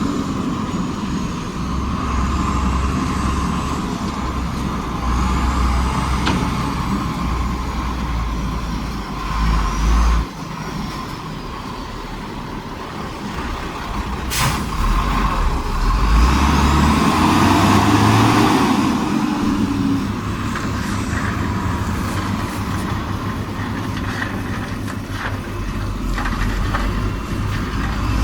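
Heavy diesel engines of a bulldozer and dump truck running under varying load, rising and falling. There is a sharp click about halfway through and a louder stretch of noise a little after it.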